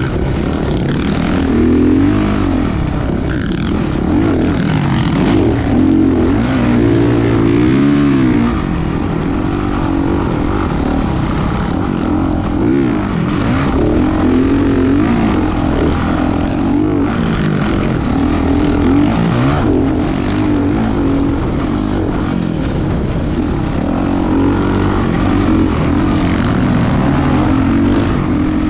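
Motocross dirt bike engine running hard and revving, its pitch rising and falling over and over as the throttle opens and closes.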